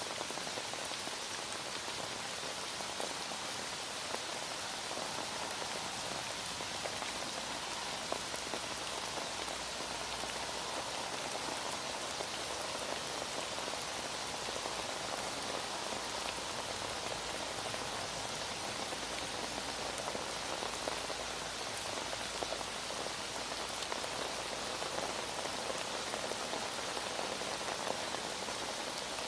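Heavy rain falling steadily, a dense even hiss scattered with small drop ticks.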